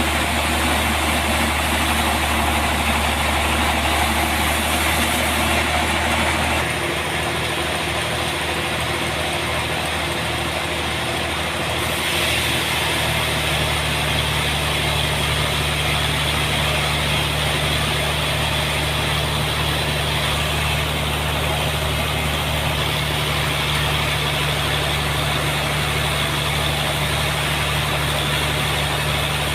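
Sawmill's engine and saw running steadily, the machine note changing twice in the first half.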